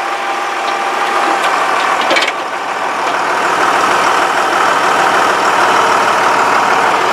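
International tractor engine running, getting louder over the first few seconds and then holding steady.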